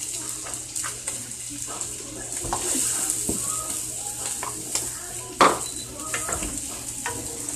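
Creamed southern fried corn sizzling steadily in a skillet on a gas burner set fairly high, a constant frying hiss. A single sharp knock about five and a half seconds in.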